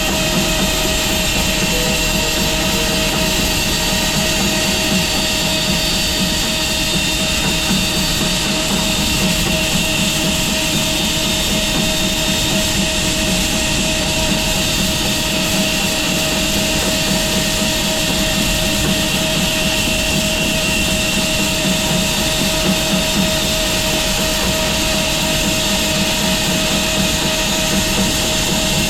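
Home-built 6 ft wide bandsaw mill running steadily, with a constant whine over its mechanical noise.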